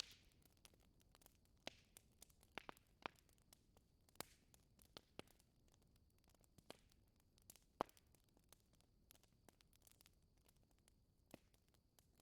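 Wood fire in a fireplace crackling faintly, with irregular sharp pops over a soft hiss; the loudest pops come right at the start and about eight seconds in.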